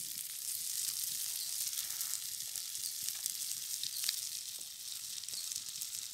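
Masala-coated eggs on sticks frying in oil on a hot metal sheet over a wood fire: a steady sizzling hiss with scattered small pops.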